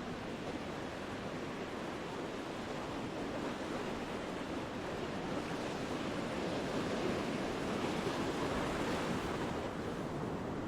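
Ocean surf breaking and washing, a steady rush of noise that swells about two-thirds of the way through and then eases.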